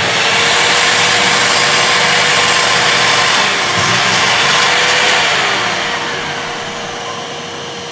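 Parkside PZKS 2000 B2 sliding compound mitre saw running with its blade cutting through a workpiece: a loud, steady rushing noise over the motor's whine, starting suddenly and tailing off over the last few seconds, with the whine dipping in pitch briefly twice under load.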